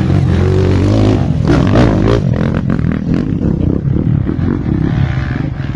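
Off-road motorcycle engine running, revving up about a second and a half in, then running unevenly with rapid irregular knocks.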